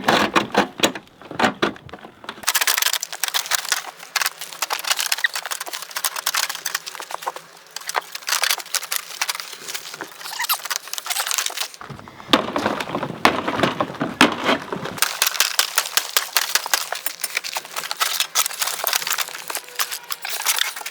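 Rusty metal car parts rattling and scraping as they are worked loose, a dense run of sharp clicks and crackles with a brief lull about two seconds in.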